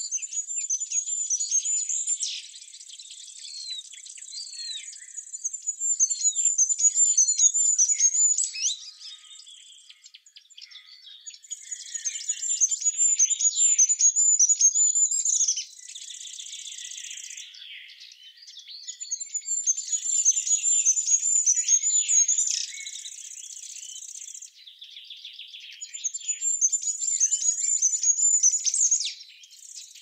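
Songbirds singing: a loud, high-pitched trilling phrase recurs about every six or seven seconds, with softer chirps and sweeping calls from other birds in between.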